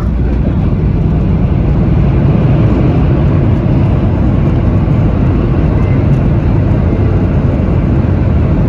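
Boeing 737-800 cabin noise heard inside the cabin: a steady low rumble of the engines and rushing air.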